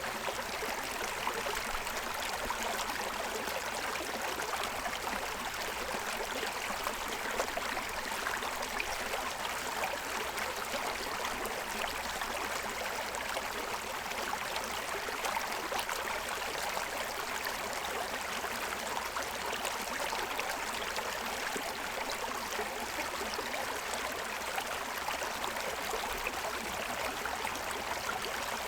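A forest stream running and splashing over the stones of its bed, a steady rushing and gurgling of water.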